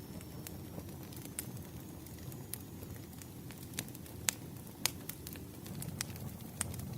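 Wood fire crackling: a low steady rumble of burning logs with irregular sharp pops, the loudest two a little after four seconds in and just before five seconds in.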